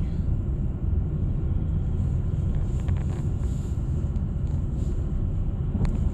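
Steady low road and engine rumble of a moving car, heard from inside the cabin, with a few faint clicks.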